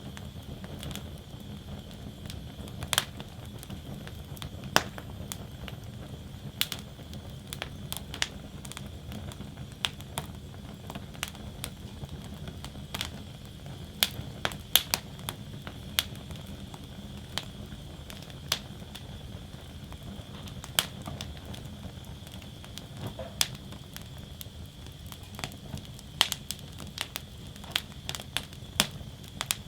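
Wood fire burning in a fire basket: a steady low rush of flame with frequent, irregular sharp crackles and pops of burning wood.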